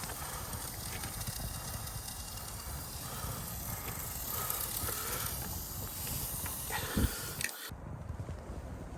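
Pot of porridge hissing and sizzling over a small wood fire burning inside a metal laundry exhaust pipe, with a low rumble under it. A single knock comes about seven seconds in, and the hiss cuts off abruptly just after.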